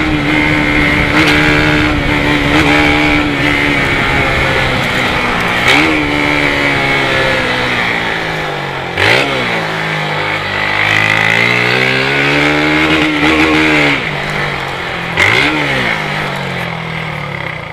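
Motorcycle engine through a modified Polimet exhaust, ridden in first gear. It runs steadily at first, then the revs drop and pick up again several times, with sharp pops on the throttle changes, and the sound fades near the end.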